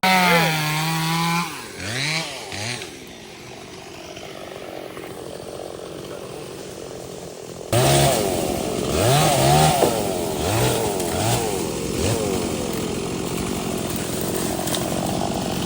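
Two-stroke chainsaw revving. A high steady run for about a second and a half, a couple of quick throttle blips, then a quieter idle. From about eight seconds in it revs up and down again and again.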